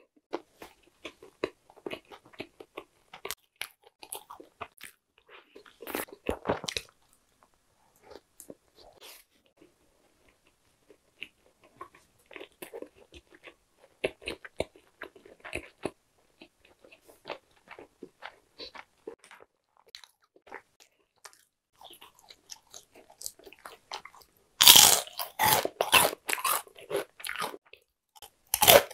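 Close-miked eating of crispy fried food: soft chewing with scattered crunches for most of the time, then loud, crisp crunching of fresh bites near the end.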